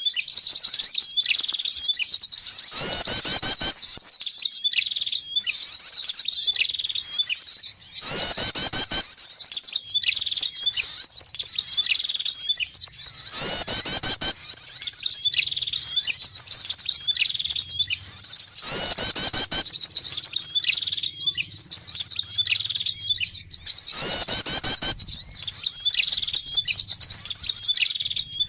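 Bird-lure recording of small songbirds, prinias and other small birds, in a dense run of fast, high chirps and twitters. A louder, fuller call breaks in about every five and a half seconds.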